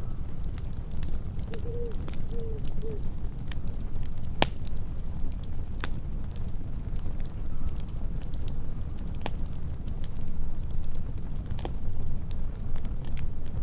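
Campfire burning, with a low steady rumble and frequent sharp crackles and pops, one loud pop about four and a half seconds in. A cricket chirps at an even pace throughout.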